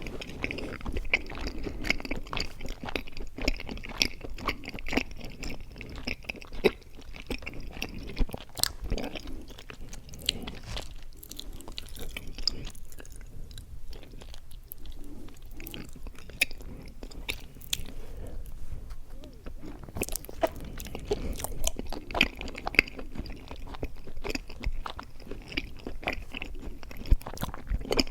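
Close-miked chewing of mochi ice cream: wet, sticky mouth sounds with many short smacks and clicks, easing off for a few seconds partway through.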